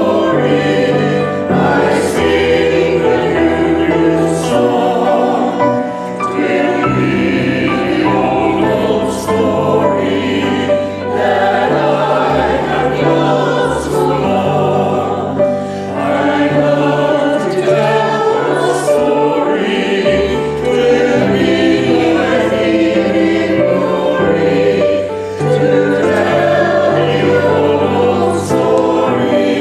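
A choir singing a sacred piece, with sustained low notes of accompaniment underneath.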